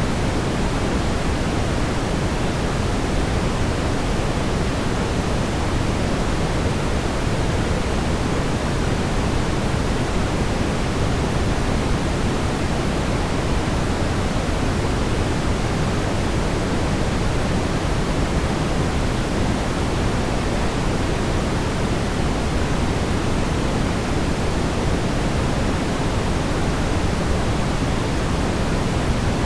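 Steady brown noise: an even, deep rumbling hiss, strongest in the low end, with no change or events.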